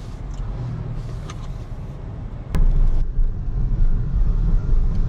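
Road and tyre noise of a BYD Seagull electric car on the move: a low, even rumble with no engine note. About halfway through comes a sharp click, and after it the low rumble is clearly louder.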